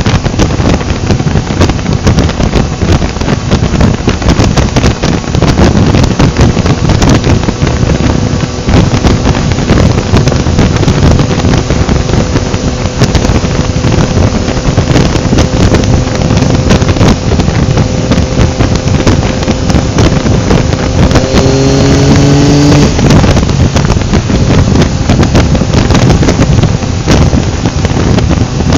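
Heavy wind rushing over the microphone of a moving motorcycle, with the engine's tone steady under it. A little past two-thirds of the way in, the engine note rises for about two seconds under acceleration and then drops away.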